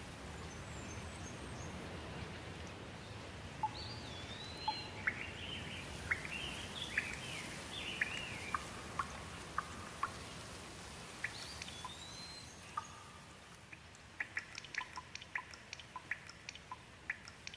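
Steady rain with a songbird singing a string of whistled, swooping notes, then a quick run of short sharp chirps near the end as the rain grows fainter.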